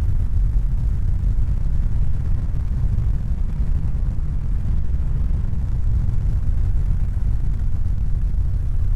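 A steady, deep rumbling noise with no distinct events or pitch.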